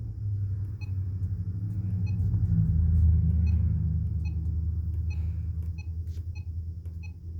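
Weather radio with a blown speaker, turned up, putting out a low distorted rumble that swells about three seconds in and then fades, with faint short ticks about twice a second.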